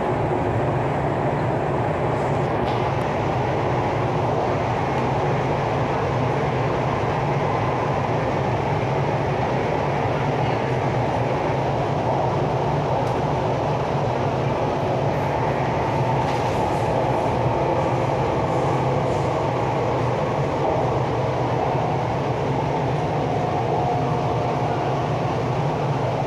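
MTR East Rail Line R-Train, a Hyundai Rotem electric multiple unit, running at speed, heard from inside the train: a steady rumble of wheels on rail and traction noise with a low hum.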